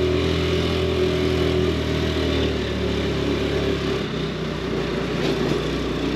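Scooter engine running steadily as it is ridden, with road and wind noise; the engine note changes about four seconds in.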